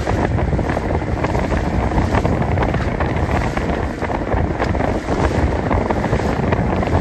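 Wind blowing across the microphone aboard a boat at sea: a steady low rumble with scattered crackles.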